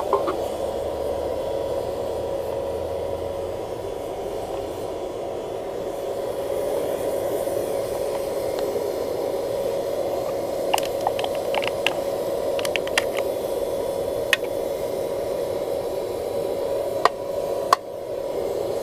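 Air blower forcing air into a charcoal-fired paint-can furnace: a steady rushing whir with a steady hum tone. A few sharp clicks and crackles come in the second half.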